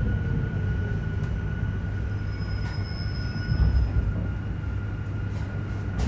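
JR Hokkaido 731-series EMU car MoHa 731-109 running, heard from inside the car: a steady low rumble with an even high tone. It carries the abnormal roar from the traction motor on the car's Otaru-end bogie, which sounds like an old nose-suspended (tsurikake) motor and is a fault noise of this one car.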